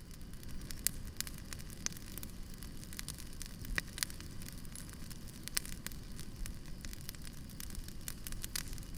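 Wood campfire crackling, with frequent sharp pops and snaps over the low steady rumble of the flames.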